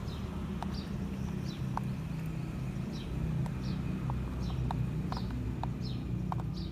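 Birds chirping over and over, short high downward calls several times a second, over a steady low hum.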